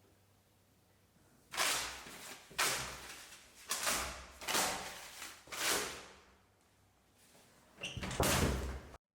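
Five bangs about a second apart, each fading quickly, then a longer, louder knocking noise that cuts off suddenly.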